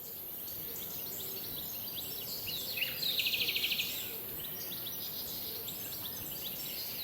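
Small birds chirping, short scattered calls over a steady background hiss, with one rapid trill of quick even notes about three seconds in, the loudest call.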